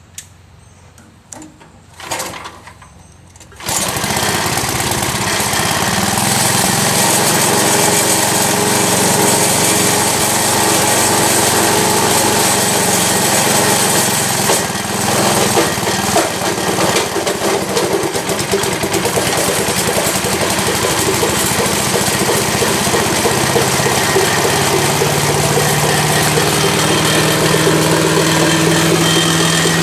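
A 5 hp Tecumseh flathead engine on a Troy-Bilt Tomahawk wood chipper is started for the first time after a carburetor replacement: after a few short sounds it catches about four seconds in and keeps running steadily. Its running note wavers briefly about halfway through.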